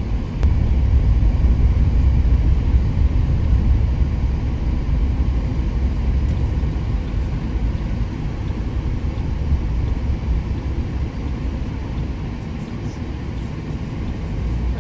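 Steady low rumble inside a moving car: engine and tyre noise while driving, growing a little louder about half a second in.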